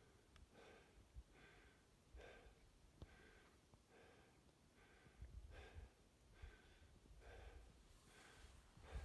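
Faint, quick rhythmic breathing, about one breath a second.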